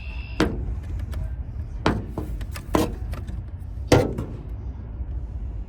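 Four sharp clicks and knocks from hands and tools working the side-door lock mechanism of a van as lock rods are fitted into their clips, the loudest about four seconds in, over a steady low hum.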